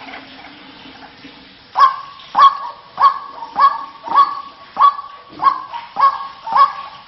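White-breasted waterhen calling: a steady series of harsh, evenly spaced notes, about three every two seconds, starting about two seconds in.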